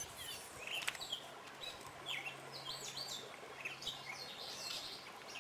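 Songbirds chirping and singing, a steady run of short, high notes that mostly fall in pitch, with one sharp click about a second in.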